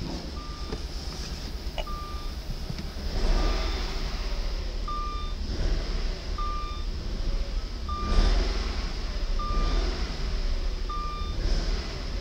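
Jaguar S-Type's 4.0-litre V8 running, revved up briefly twice, about three and eight seconds in; the tester judges that it sounds good. A short beep repeats about every second and a half behind it.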